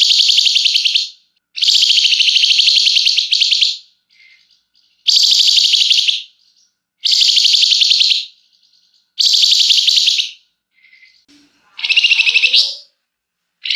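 Flamboyan songbird singing in long, very rapid high trills, the "ngebren" song, in bursts of one to two seconds with short pauses between them.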